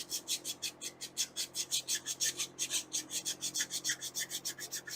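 Rapid back-and-forth hand scrubbing of a metal engine part, about eight strokes a second, starting suddenly.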